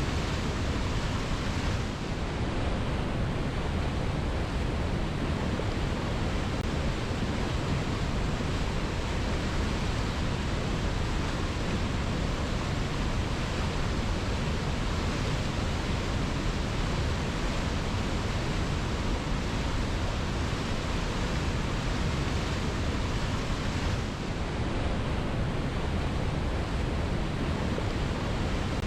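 Waterfall: water pouring steadily onto rocks, a constant, even rush with a deep low rumble and no distinct splashes.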